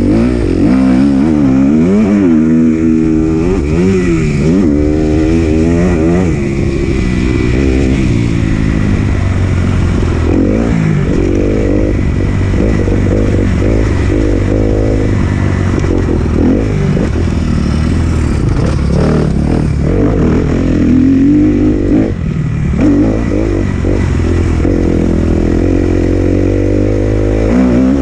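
A 2018 Kawasaki KX250F's single-cylinder four-stroke engine is ridden hard around a motocross track. It revs up and down repeatedly through gear changes and throttle cuts, and there is rattling clatter.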